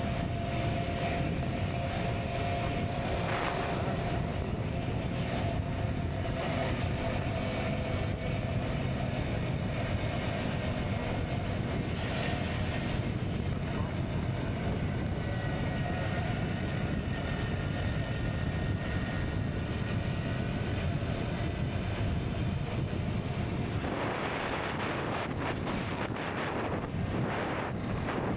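KTM Duke 125's single-cylinder engine, fitted with an Akrapovic exhaust, running under way on a ride, with wind buffeting the microphone. A louder rush of wind noise comes near the end.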